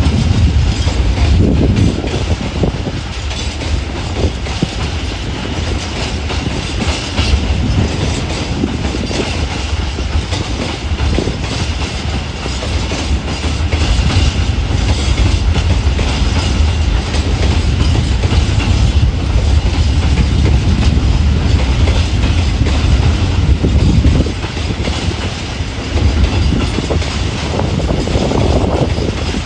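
Freight train of empty open coal wagons rolling past: a continuous heavy rumble from the wagons, swelling and easing, with repeated short knocks from the wheels.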